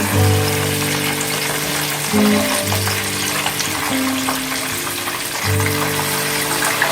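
Pigeons deep-frying in hot cooking oil, a steady sizzle with many small crackles. Background music plays along with it.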